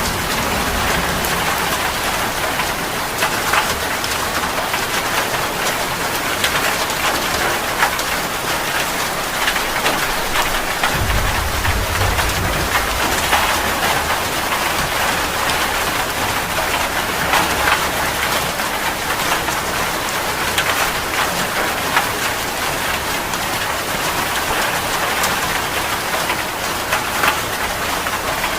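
Heavy rain falling steadily, a dense patter of drops splashing on surfaces. A brief low rumble comes about eleven seconds in.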